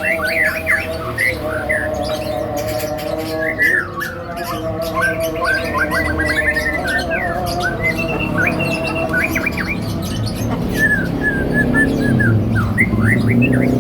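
White-rumped shama (murai batu) singing and calling in rapid clusters of quick rising and falling notes, over a steady low hum.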